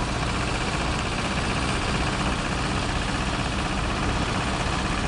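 Heavy truck's diesel engine running steadily with a low, even rumble.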